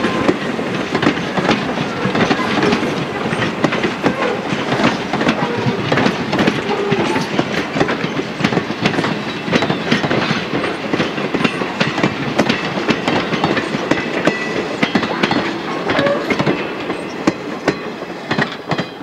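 Railroad passenger coaches rolling past, their wheels clicking and clattering rapidly over the rail joints. The clatter fades near the end as the last coach goes by.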